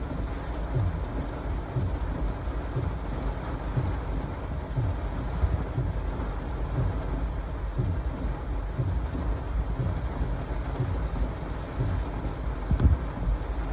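Heavy thunderstorm rain falling steadily, with strong gusty wind buffeting the microphone in repeated low rumbles and one louder thump near the end.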